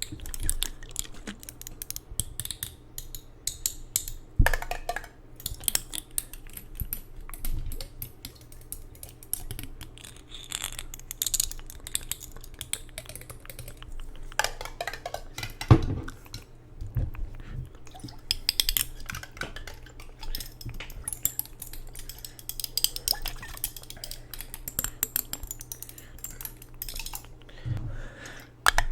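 ASMR triggers: rapid, irregular tapping and clicking on hard objects, with clinks like glassware or dishes and a few louder knocks.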